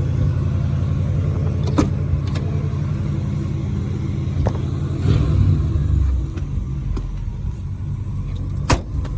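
A 1987 Buick Regal's factory 307 V8 runs at idle, and its throttle is blipped once about five seconds in, the engine swelling briefly and settling back. A few sharp clicks sound over it.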